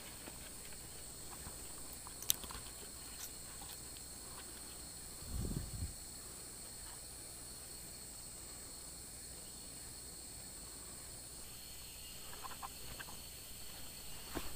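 Tropical rainforest insect chorus: a steady, high-pitched drone of insects. A sharp click comes about two seconds in, and a brief low thump at about five and a half seconds.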